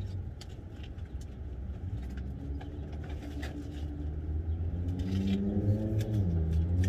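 Car engine running with a steady low rumble. A pitched note rises over it in the last couple of seconds, dips briefly, then rises again.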